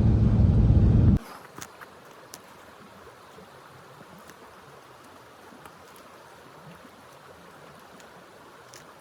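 A loud low rumble cuts off abruptly about a second in. It leaves a faint steady hiss with a few soft clicks.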